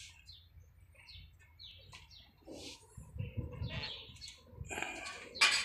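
Small birds chirping in short scattered calls, with a sharp click near the end.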